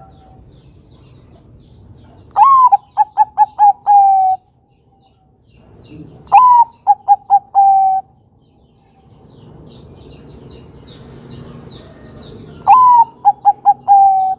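Zebra dove (Bangkok-type perkutut) cooing: three song phrases, each a rising first note followed by a quick run of four or five short notes and a longer, lower final note.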